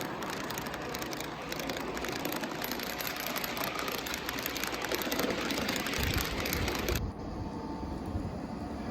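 G scale model train running outdoors: a steady whir of the locomotive's electric motor and wheels on the track. About seven seconds in, the high hiss drops away abruptly and a lower rumble goes on.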